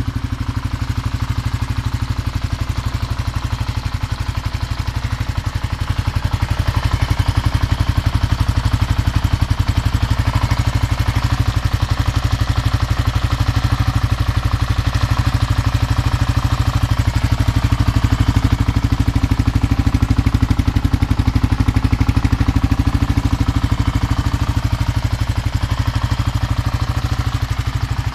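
Kawasaki KLR600's single-cylinder four-stroke engine idling steadily as it warms up after a cold start, a little louder from about six seconds in.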